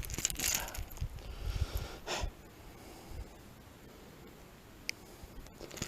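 Scattered rustling handling noises close by, most of them in the first second, with a louder brush about two seconds in and a single faint click near the end, as a small hooked fish is handled and unhooked.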